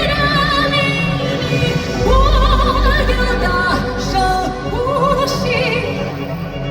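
A high, wordless operatic-style vocalise with wide vibrato, sung live over instrumental backing with a deep bass.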